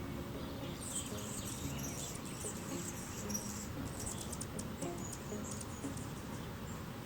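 Anna's hummingbird giving rapid, high-pitched scratchy chips and ticks, bunched in the first half and thinning out toward the end.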